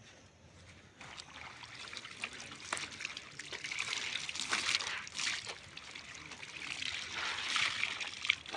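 Water trickling and splashing from freshly rinsed wet laundry as it is handled. It starts about a second in and comes unevenly, in swells with small splatters.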